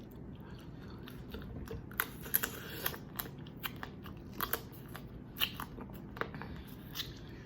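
Boiled crawfish being eaten close to the microphone: irregular sharp crackles and clicks of shells cracking and peeling, with chewing.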